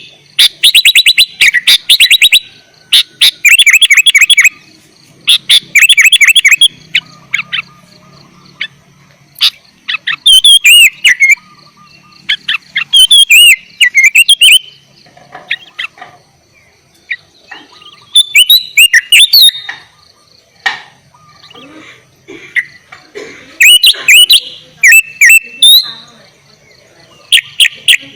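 Sooty-headed bulbul (kutilang) singing loudly in repeated bursts of bright, bubbling whistled phrases, about eight phrases with short pauses between them. Some phrases are fast runs of quick clicky notes, others are swooping whistles. A faint, steady, high-pitched tone runs underneath.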